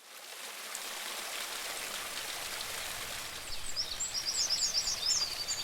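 Steady rush of falling water, fading in at the start. From about three and a half seconds in, a bird sings a quick run of high chirps over it.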